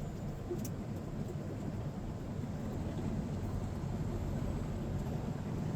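Steady low rumble of a semi-truck driving on the highway, heard inside the cab: diesel engine drone and road noise, growing slightly louder.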